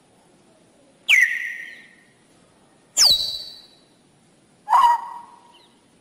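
Three loud bird calls a little under two seconds apart, each starting sharply with a quick drop in pitch and then trailing away over about a second.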